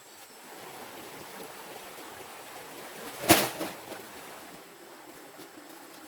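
A steady rushing noise with one loud, sharp knock about halfway through, followed by a couple of fainter knocks.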